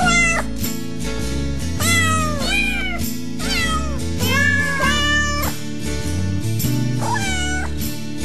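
Background music with a steady beat, over which a cat meows several times, each meow rising and then falling in pitch.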